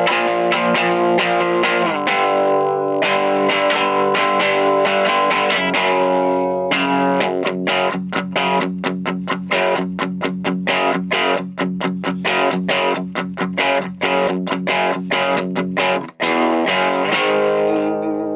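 Electric guitar (Chapman ML3 Modern, bridge pickup) through a VOX Lil Night Train 2-watt all-tube amp set to a crunch tone. Ringing chords for the first six seconds or so, then a fast run of single picked notes, and a chord again near the end.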